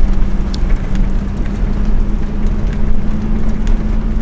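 Truck driving, a steady low rumble of engine and road noise with an even hum.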